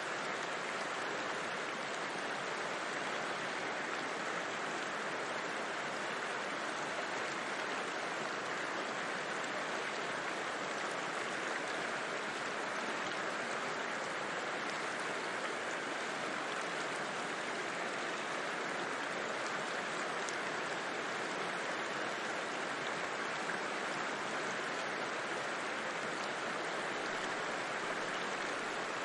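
River flowing steadily: an even, unbroken rush of water.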